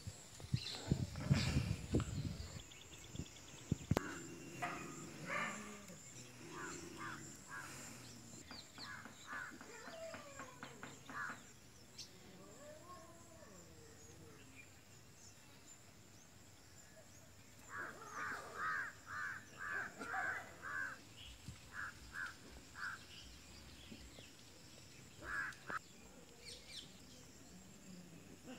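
Rural outdoor ambience with bird calls: a run of short, evenly spaced calls, about three a second, a little past halfway, and scattered single calls before and after. Low rumbling thumps in the first two seconds.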